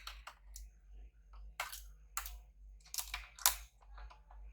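Irregular small clicks and taps of a screwdriver and loose screws on a laptop's plastic case as screws are taken out, a few sharper clicks near the middle and toward the end.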